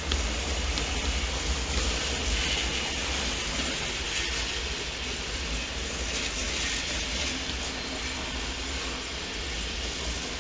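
A train moving on the tracks in a station: a steady rumble with a hiss of wheels on rails, a little louder in the first few seconds.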